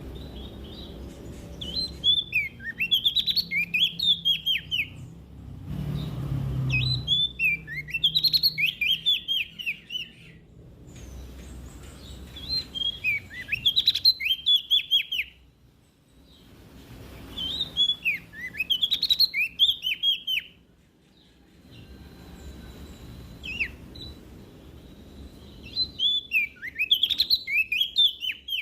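Prenjak daun songbird singing five bursts of rapid, high chirps, each phrase about three seconds long with short pauses between, over a faint low hum.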